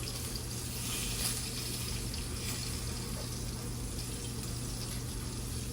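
Water running steadily from a kitchen tap, over a steady low hum.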